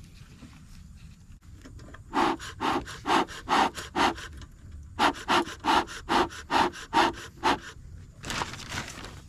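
Rhythmic rasping strokes in two runs, about two and a half strokes a second, like a back-and-forth scraping or sawing, followed by a short noisy rush near the end.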